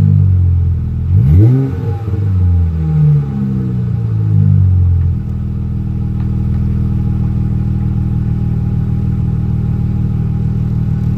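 2017 Dodge Charger's 3.6-litre V6 running through Jones Full Boar single-chamber 13-inch mufflers on 2.5-inch pipe, revved up and down in short blips, with one quick rising rev about a second and a half in. About five seconds in it settles to a steady idle.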